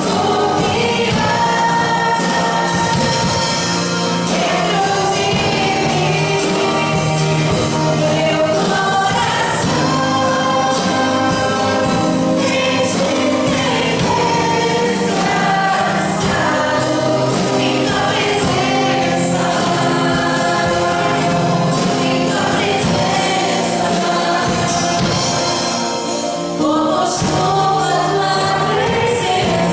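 A worship band and choir singing a Portuguese-language gospel praise song, with voices over steady sustained accompaniment.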